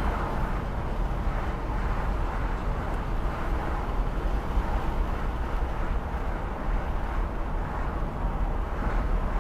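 Wind rushing and buffeting through a car's four open windows at about 40 mph, with road noise underneath, picked up by a Viofo A129 Plus Duo dashcam's microphone inside the cabin. A steady noisy rush with a heavy low rumble.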